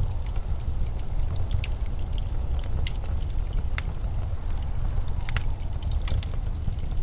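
Blizzard wind as a steady low rumble, with scattered sharp clicks and crackles over it.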